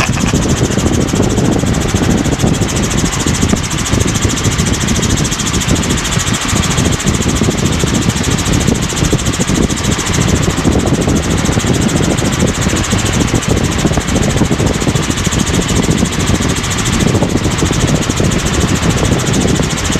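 Helicopter cabin noise in cruise flight: the engine and rotor run steadily with a fast, fine pulsing.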